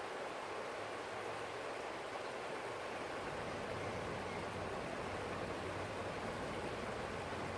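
Stream water flowing steadily over rocks, an even rushing sound.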